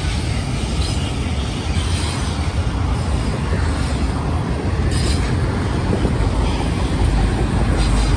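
Freight train of autorack cars rolling past, a steady rumble of wheels on rail with a few sharp clicks about one, two and five seconds in.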